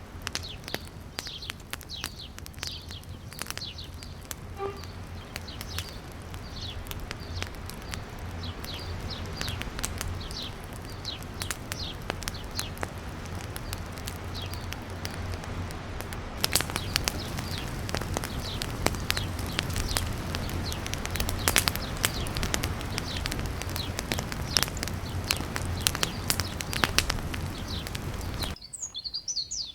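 Birds chirping over a steady crackling with many sharp little pops. The crackling grows denser about halfway through, and near the end the sound cuts to clearer birdsong.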